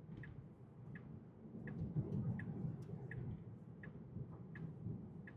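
Tesla's turn-signal indicator ticking steadily, about three ticks every two seconds, over the low hum of road noise inside the moving car's cabin.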